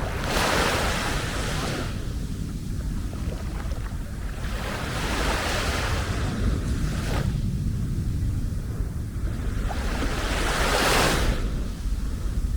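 Small sea waves breaking and washing up a beach, three surges of hiss about five seconds apart, each lasting a second or two, over a steady low rumble.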